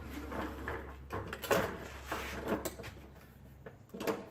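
Irregular knocks, clicks and rustling as stored things are shifted and rummaged through, over a steady low hum.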